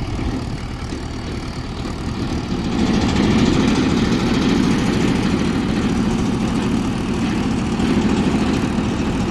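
Mahindra 475 DI tractor's diesel engine running, rising to a louder, heavier note about three seconds in and holding there, as the tractor works in deep mud.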